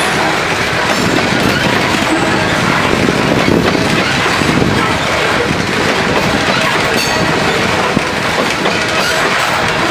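Loaded coal train's freight cars rolling steadily past, with a continuous rumble of steel wheels on the rails.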